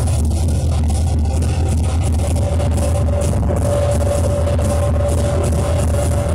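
Very loud music from a large outdoor festival sound system, dominated by a heavy, constant bass, with a single held tone entering about two and a half seconds in.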